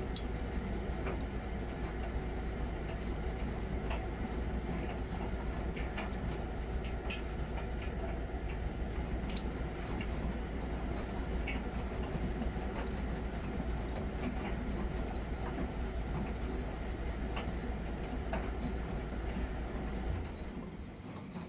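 Miele Novotronic W921 front-loading washing machine running: a steady low rumble from the motor and turning drum, with scattered light clicks and knocks as the load tumbles. The sound eases off briefly near the end.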